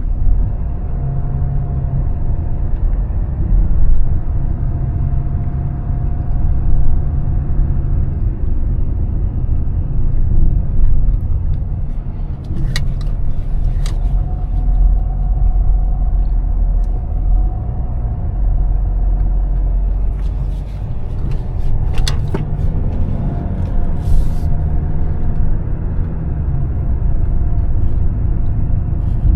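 Mercedes-Benz E320 CDI turbodiesel car driving: a steady low engine and road rumble with a faint steady tone over it. A few sharp clicks come about halfway through and again later on, with a short hiss soon after.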